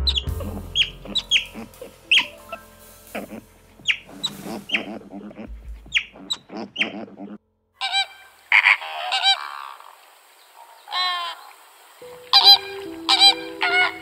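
Honking bird calls, many short calls in quick succession; after a break about seven seconds in, a different set of pitched calls follows, with a steady tone joining near the end.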